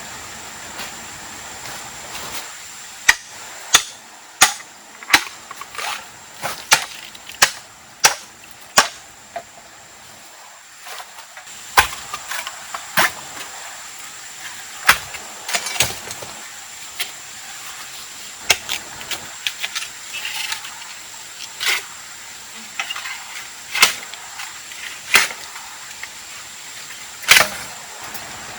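Sharp knocks of a tool striking wood while building a shelter: a steady run of about nine strikes a little under a second apart, then slower, irregular strikes.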